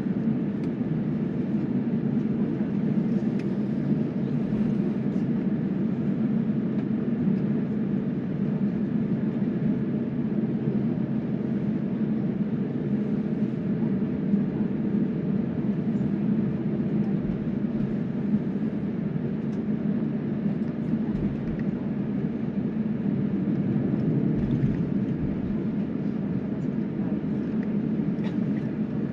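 Steady rumble of an airliner's jet engines running at low power, heard inside the passenger cabin while the plane is on the ground before takeoff.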